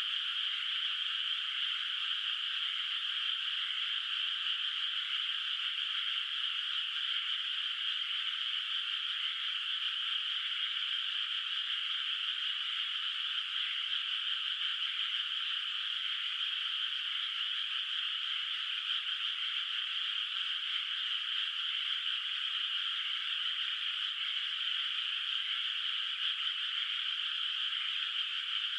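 Many frogs calling together in a flooded rice paddy: a dense, steady chorus with no breaks, its energy high up and no low sound beneath it.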